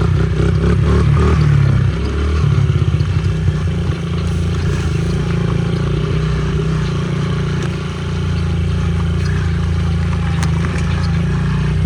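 Honda CRF50 pit bike's small four-stroke single-cylinder engine running under throttle as the bike is ridden. The engine note eases off briefly twice, about two seconds in and again about eight seconds in.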